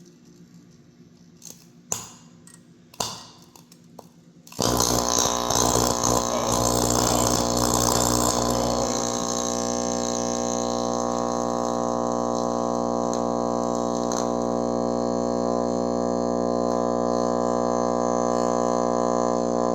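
A few sharp clicks, then about four and a half seconds in a bare microwave-oven high-voltage transformer and magnetron are switched on with a loud, steady electrical buzz. A crackling hiss rides on top for the first few seconds, then settles into an even drone.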